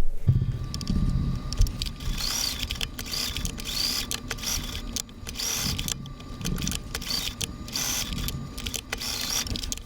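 Domestic sewing machine stitching Velcro onto a small fabric piece, running in uneven stop-and-go spurts with a steady motor whine underneath.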